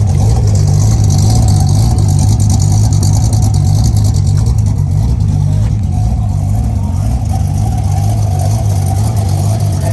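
Corvette LS V8 swapped into a classic BMW 3 Series, running steadily with a loud, pulsing low exhaust rumble and no revving.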